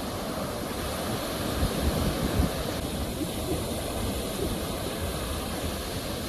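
Ocean surf: a continuous wash of breaking waves with a low rumble, swelling a little louder about two seconds in.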